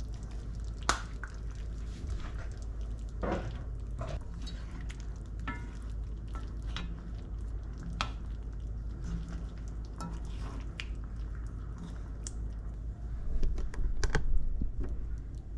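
Dishes and cutlery clinking and knocking in a kitchen: scattered sharp clicks, with a louder, busier cluster of clatter near the end, over a steady low hum.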